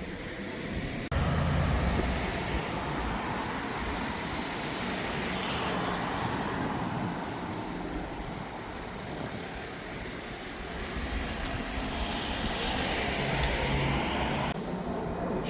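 Road traffic at a street crossing: cars driving past in a steady rush of tyre and engine noise, swelling as vehicles go by, with a sudden jump in level about a second in.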